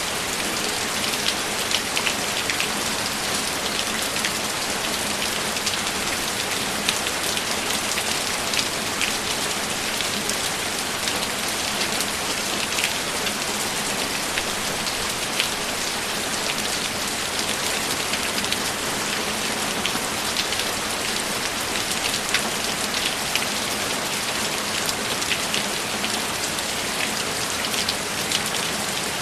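Steady rain falling, with many individual drops tapping on a hard surface.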